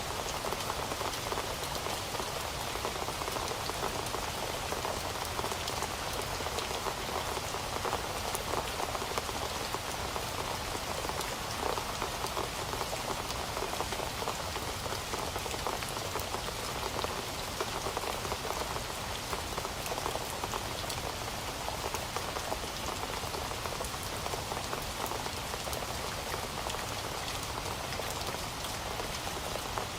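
Heavy rain falling steadily, a dense, even patter of drops hitting a surface.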